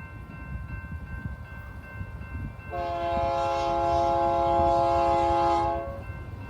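Freight locomotive's multi-chime air horn sounding one long blast of about three seconds, starting a little under three seconds in, over the low rumble of the approaching train.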